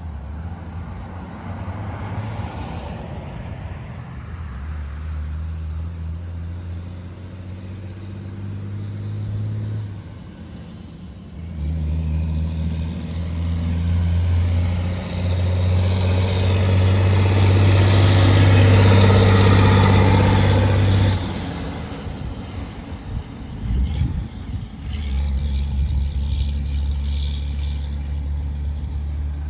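Diesel dump truck engine running under load, its low note stepping between speeds several times. It grows louder to a peak about twenty seconds in, then drops back suddenly.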